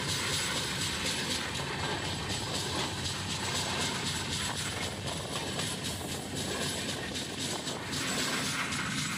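Passenger train running along the track, heard from an open coach door: a steady rumble with a rapid, continuous rattle of the wheels and coach running gear.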